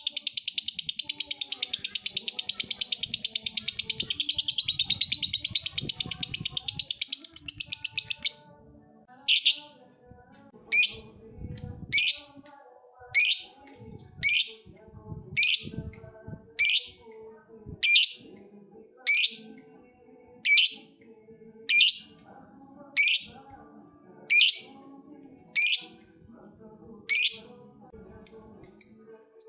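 Lovebird 'ngekek': a long, rapid chattering trill that breaks off about eight seconds in, followed by single sharp, shrill calls a little over once a second, coming quicker and shorter near the end.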